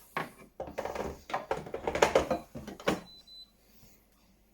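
Plastic water tank of a bean-to-cup coffee machine being handled and slotted back into the machine: a quick run of clattering knocks and clunks over about three seconds, then quiet.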